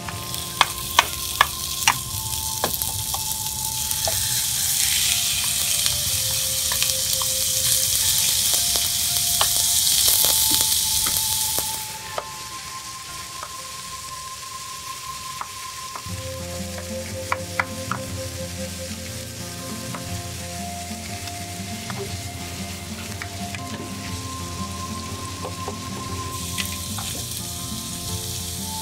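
Eggplant and ground meat frying in an oiled frying pan: a loud sizzle for the first twelve seconds or so, easing to quieter frying, then swelling again near the end as green peppers go into the pan. A few sharp taps in the first two seconds, and soft background music throughout.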